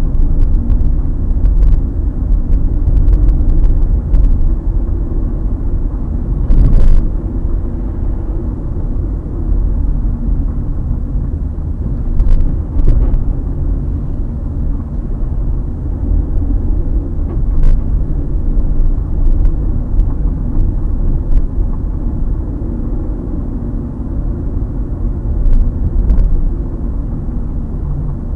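Skoda Rapid driving, with a steady low road and tyre rumble and a dozen or so short creaks or knocks from the suspension. These are the stabilizer (anti-roll bar) bushings squeaking, a common Rapid fault.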